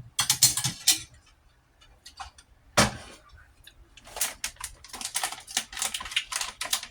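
Close-miked chewing of a mouthful of rice and egg: a cluster of loud clicks in the first second, one sharp click near three seconds, then from about four seconds a fast, dense run of smacking mouth clicks.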